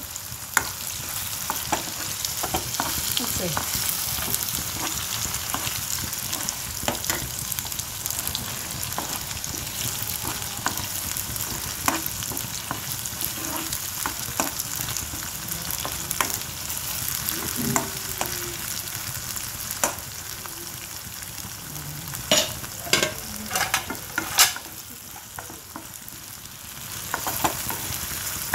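Ground mole masala paste sizzling in hot oil in a non-stick kadai as it is roasted and stirred, with the spoon scraping and clicking against the pan. A run of louder knocks comes a little past two-thirds of the way through, and the sizzle dips briefly near the end.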